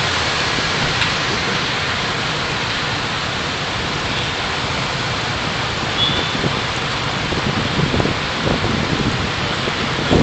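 Steady hiss of a car on the move, picked up by a dash camera inside the car.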